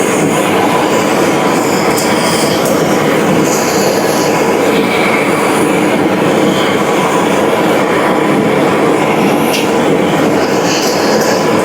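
Steady, loud mechanical running noise, with a few faint high squeaks and clicks on top.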